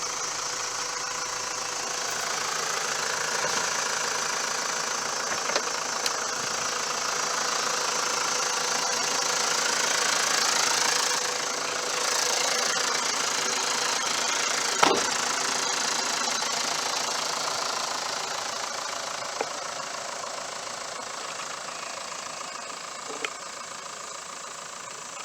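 2001 Mitsubishi Fuso FE145's 4.9-litre turbo diesel engine idling steadily, very quiet and free of odd noises. It grows louder toward the middle and fades slowly after, with a single sharp knock about 15 seconds in.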